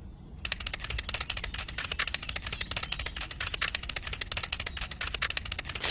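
A rapid, dense run of crackling clicks, many a second, starting about half a second in.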